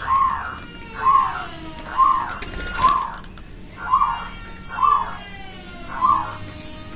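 Zebra dove (perkutut) cooing: seven short coos about a second apart, with fainter birdsong behind. A single sharp click sounds about three seconds in.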